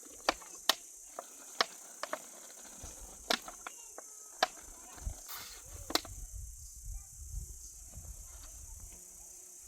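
Crickets chirring steadily, with about eight sharp, irregularly spaced knocks in the first six seconds, then a low rumble.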